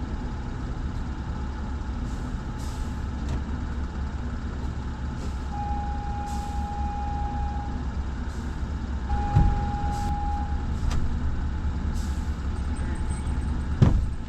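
Steady low rumble, with two long electronic beeps of one steady pitch, about six and nine seconds in, and two short knocks, the louder one near the end.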